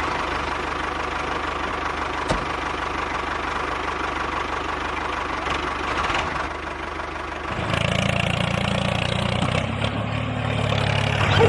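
Mini tractor's motor running steadily; about three-quarters of the way through its note changes to a lower, slightly louder hum.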